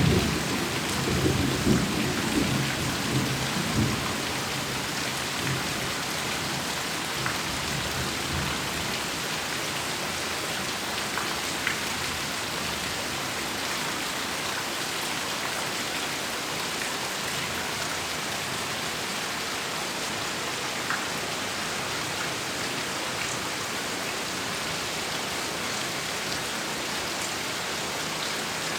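Heavy rain falling steadily, pattering on surfaces. A thunder rumble that began just before is dying away over the first few seconds, after which only the steady downpour remains, with a few sharper drop impacts.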